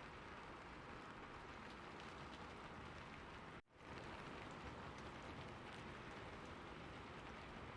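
Steady rainfall, an even hiss of drops, with a brief dropout to near silence about halfway through before it picks up again.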